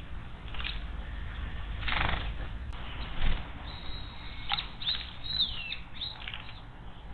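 Small wild bird at a garden water basin: a burst of wing flapping about two seconds in, then a run of short, high chirps and down-slurred calls.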